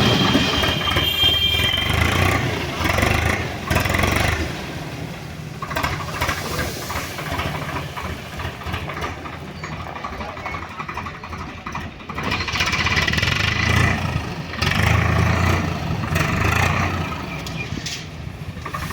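Diesel engine of a JCB 3DX backhoe loader running while it works, its rumble rising in two louder stretches, near the start and about two-thirds of the way through, then easing back.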